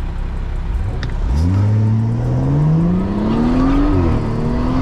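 BMW 340i's turbocharged B58 inline-six, breathing through a valved axle-back exhaust with the resonators deleted, accelerating hard from a stop. After a low rumble, the note climbs steadily for about two and a half seconds, drops at an upshift about four seconds in, then climbs again.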